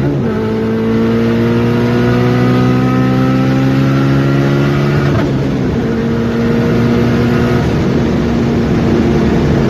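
Turbocharged Honda engine with a 3-inch turbo-back exhaust pulling hard at wide-open throttle on low boost. The revs climb steadily, drop sharply at an upshift right at the start and at another about five seconds in, then climb slowly again in the next gear.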